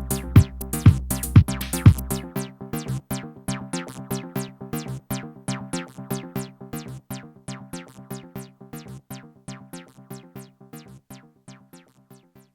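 Electronic techno pattern from a drum machine and synthesizer: a kick drum about twice a second with a deep bass drone, both dropping out about two seconds in. A fast repeating synth sequence carries on alone and fades out gradually.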